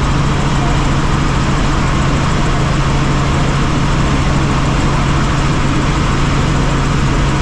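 Helicopter engine and rotor noise, a steady loud drone with a strong constant low hum.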